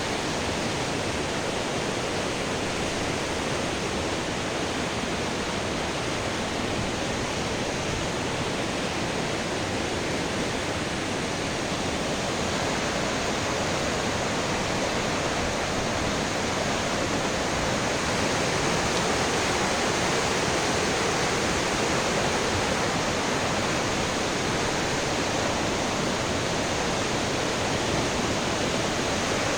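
Fast-flowing river rushing over rocks, a steady, even rush of water that grows slightly louder about halfway through.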